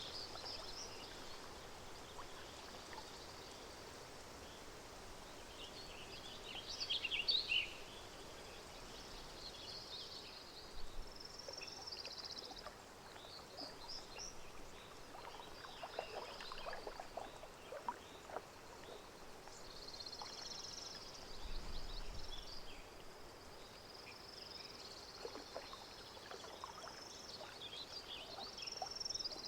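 Lake-side nature ambience: birds chirping and twittering on and off, over gentle water sounds with small splashes or drips, clustered around the middle and near the end.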